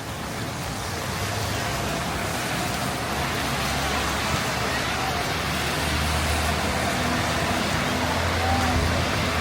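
Heavy rain falling steadily on a city street, with traffic passing; a vehicle's low engine hum swells in the second half.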